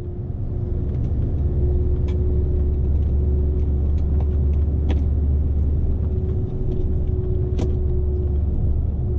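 Scania S520's V8 diesel running steadily, heard inside the truck's cab: a deep drone with a thin steady whine above it. A few sharp clicks or rattles break in now and then, the loudest near the end.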